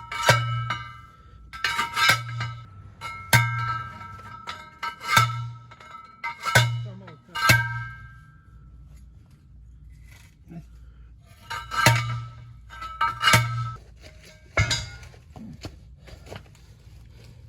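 A fence post being driven in: about nine sharp metallic clangs at irregular spacing, each ringing briefly and carrying a dull thump underneath, with a pause of a few seconds in the middle.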